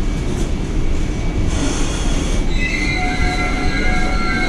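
Vande Bharat Express electric train set running with a low rumble as it slows into a station. From about halfway through, a high brake and wheel squeal rises over it in several steady tones as the train brakes toward a stop.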